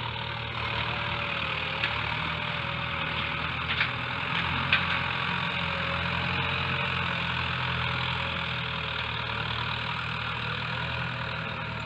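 Farm tractor engine running steadily while plowing a field, a constant drone with a faint wavering whine over it and a few light clicks.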